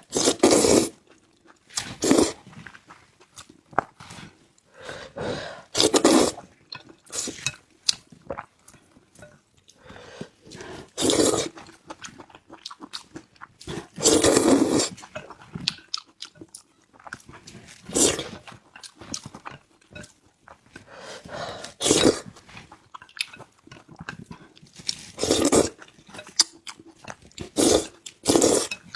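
Close-miked noodle eating: loud slurps every few seconds, with quieter chewing and mouth sounds between them.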